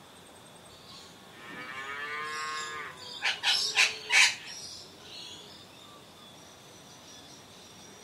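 Red wattlebird calling: one long call lasting over a second, then four short, loud, harsh notes in quick succession.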